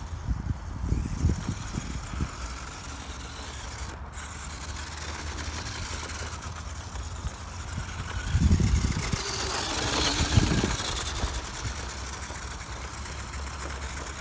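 Electric RC off-road car's motor whining as it drives over rough ground, rising and falling in pitch with throttle, with low rumbling bumps; it is loudest from about eight to eleven seconds in.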